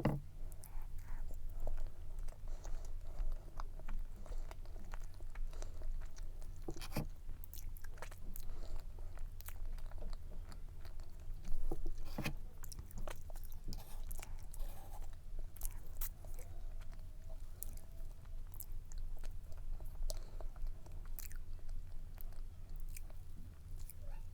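Close-up chewing and biting of layered cake, with small crunches and soft clicks of the mouth, one louder crunch near the middle.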